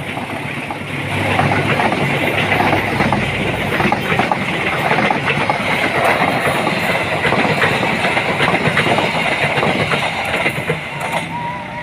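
A train passing close by, its wheels clattering rhythmically over the rail joints, the noise easing off near the end.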